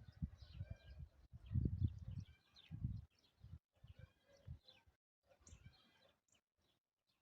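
Small birds chirping and trilling repeatedly, over irregular low rumbling that is loudest in the first few seconds and dies away about five seconds in.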